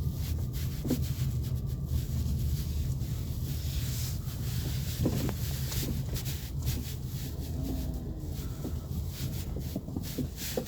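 Volkswagen Polo sedan driving over an uneven road: a steady low road rumble with repeated, irregular light knocks from the front suspension. These are the characteristic knocks of worn front anti-roll bar (stabilizer) links.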